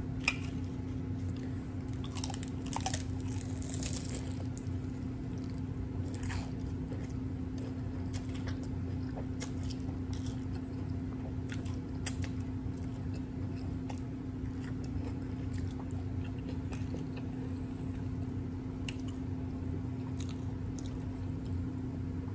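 Close-up eating sounds of a crunchy spicy jalapeño cheddar hard taco shell being bitten and chewed: scattered crisp crunches, thickest a couple of seconds in, over a steady low hum.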